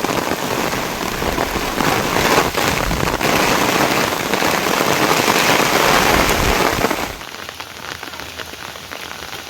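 Heavy rain falling steadily, a dense even hiss that drops abruptly to quieter rain about seven seconds in.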